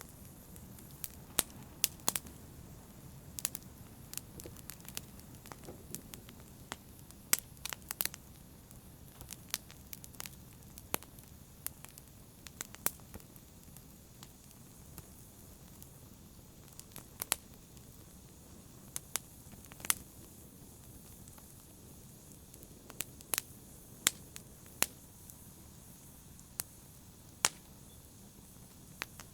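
Wood fire crackling in a fireplace: a low steady hiss broken by irregular sharp pops and snaps, several of them much louder than the rest.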